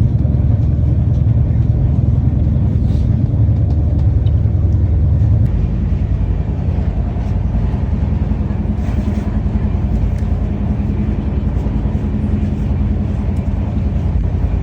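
Steady low rumble of a moving express train heard from inside the coach. About five and a half seconds in, the deepest rumble eases a little and a steady hum comes up, with a few faint clicks.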